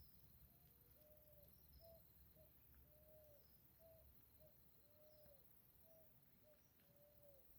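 A bird cooing faintly, repeating a phrase of two short low notes and one longer, arched note about every two seconds. Faint high chirps and a thin steady high tone sound behind it.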